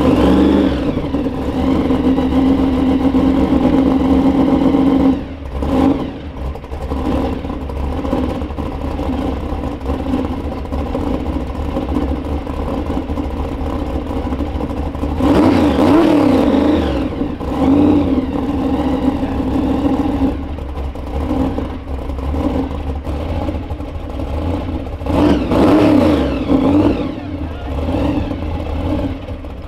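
Supercharged 440 stroker V8 of a 1971 Dodge Demon running: a loud, high idle for the first five seconds, then settling to a lower idle. The throttle is blipped about fifteen seconds in and again about twenty-five seconds in, each rev rising and falling.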